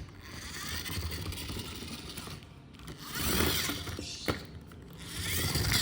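Plastic toy monster truck being handled, its wheels and gear mechanism whirring and rattling, with a few sharp clicks; the whirr swells and fades several times.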